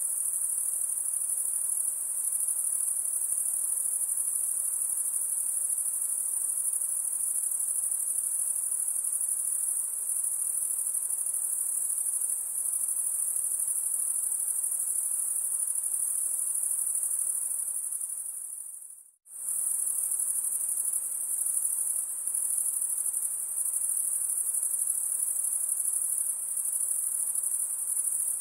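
Insects chirring in a continuous, very high-pitched drone. About nineteen seconds in it fades out briefly, then returns at full level.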